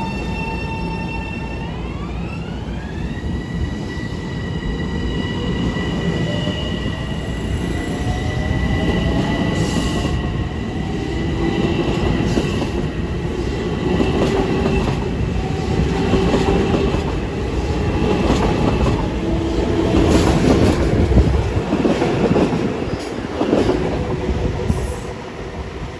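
Long Island Rail Road train moving through the station, its motors giving a whine of several tones that rises in pitch about two seconds in and then holds steady. Wheel and rail noise with some squeal and clicking builds toward the end.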